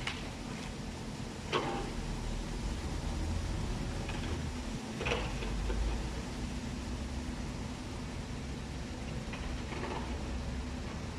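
A heavy vehicle's engine running steadily at low revs, with a few short clanks over it.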